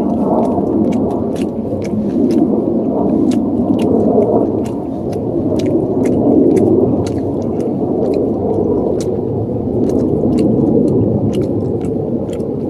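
Strong wind gusting and rumbling, surging and easing every few seconds, with scattered sharp clicks throughout.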